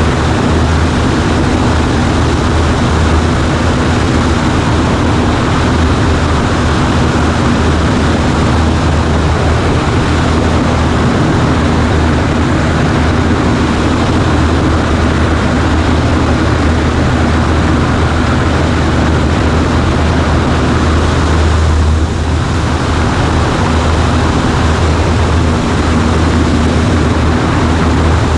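Cessna 140A's piston engine and propeller droning steadily, heard from inside the cockpit, with a steady hiss over it.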